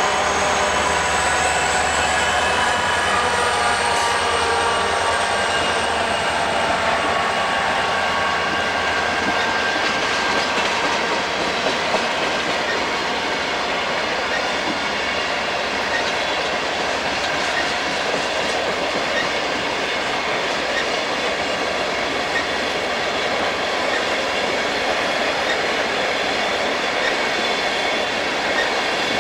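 A diesel-hauled freight train climbing uphill past close by. Its locomotives' low engine drone fades over the first several seconds, then the cars roll by with a steady rumble and clickety-clack of wheels on rail joints.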